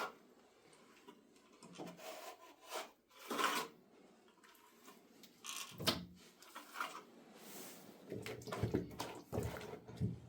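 Irregular scraping and knocking of hands-on work, a few separate scrapes and dull knocks spread over several seconds with quieter handling noise between them.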